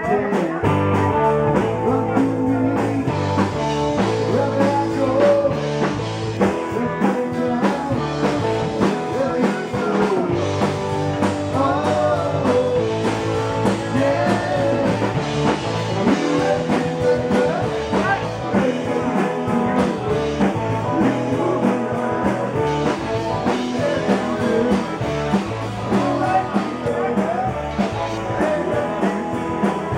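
Live rock band playing an upbeat rock song with electric guitar, bass and drums, with a singing voice over it at times.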